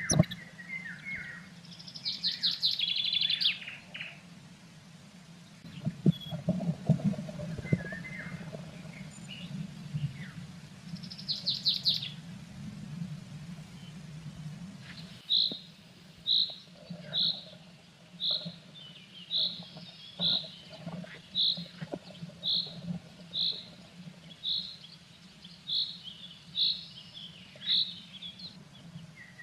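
Small songbird calls: two short fast high trills, then a single high note repeated about once a second for the second half. A steady low hum with faint scuffs runs underneath.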